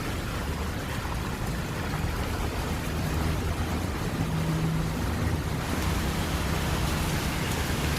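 Steady heavy rain mixed with traffic on a wet road: a vehicle engine's low hum under the hiss of rain and tyres on wet pavement. The hiss gets brighter about six seconds in.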